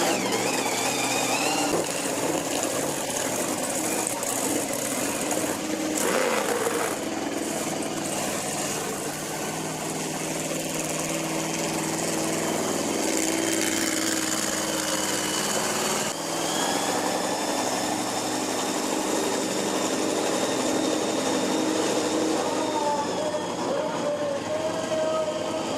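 Monster truck engines running and revving, the pitch rising and falling.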